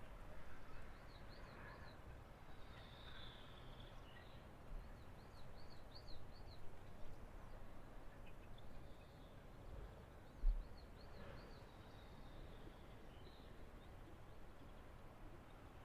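Faint outdoor ambience with a small bird singing short runs of quick, high chirps, repeated three times. A single low thump about ten seconds in.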